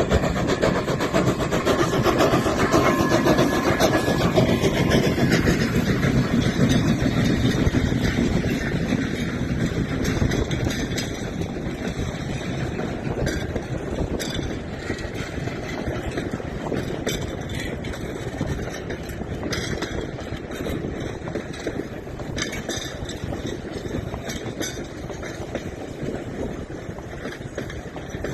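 Locomotive running steadily with a rough mechanical sound, loud at first and growing gradually quieter after about eight seconds.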